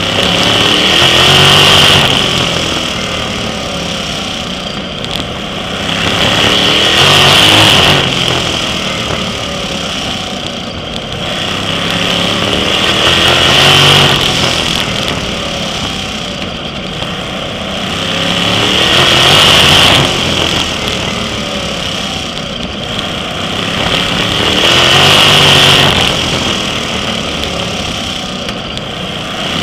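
Sprint car racing engine under full throttle, revving up and easing off in a steady cycle about every six seconds as it drives down the straights and lifts for the turns of a short oval.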